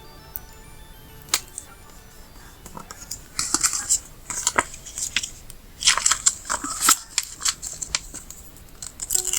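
Paper stickers being handled and peeled: a few sharp taps, then crisp, crackly rustling in bursts, over faint background music.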